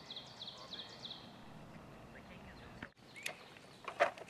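A small bird sings a quick run of high, repeated chirps. About three seconds in, a few sharp clicks and knocks follow, the loudest near the end, as rifles and gear are handled.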